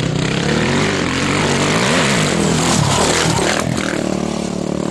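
Racing motorcycle engines at high revs passing close by, their pitches rising and falling as they go past, with the loudest pass about two seconds in.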